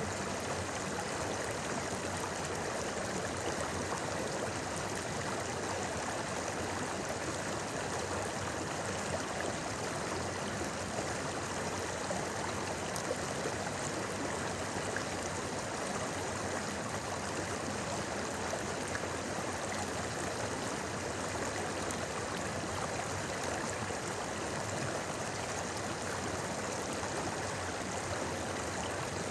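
A shallow river babbling steadily, an even, continuous rush of flowing water.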